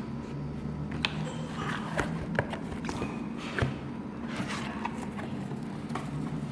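Packaging of a boxed dental apex locator being handled and opened: scattered light taps, clicks and rustling scrapes, over a steady low hum.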